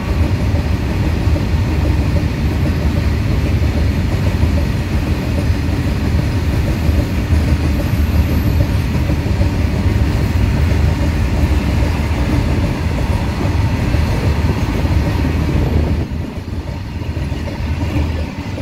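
Freight train of open-top steel wagons rolling past close by: a deep, steady rumble of wheels on rails, dropping somewhat in level over the last few seconds.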